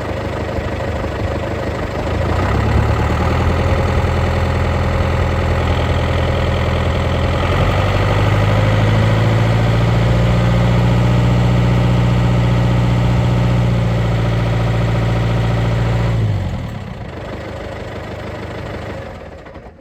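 Tractor engine running with the PTO engaged and spinning the driveshaft. The revs rise in two steps, about two seconds in and again around seven seconds, hold steady, then drop back near the end and cut off.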